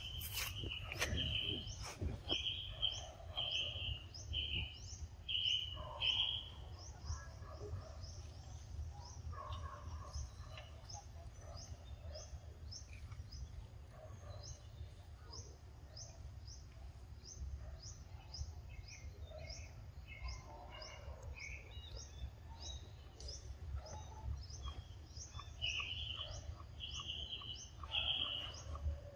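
Forest birds calling: one short high chirp repeats steadily, about three every two seconds, while a second call gives a series of short, lower notes for the first six seconds and again near the end. A low rumble runs underneath.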